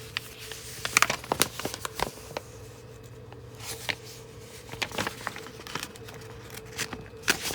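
Paper instruction booklet being handled and its pages turned: scattered rustles and crinkles with a faint steady hum underneath.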